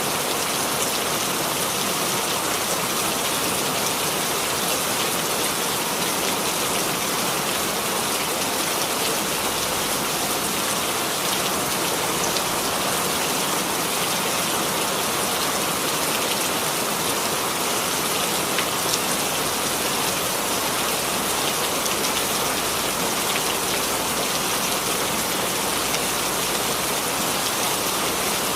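Steady rainfall: an even hiss of rain with faint individual drop ticks.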